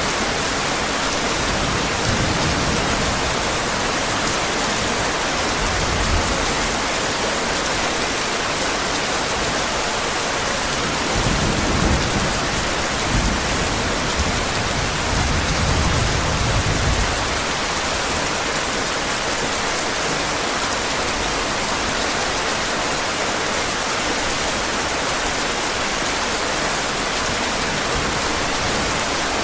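Heavy rain falling in a steady hiss, with a low roll of thunder rumbling from about eleven seconds in for several seconds.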